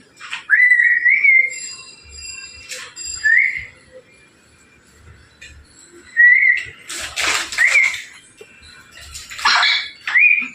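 Pet parrot whistling: about five short rising whistled notes, with two harsh, raspy squawks in the second half.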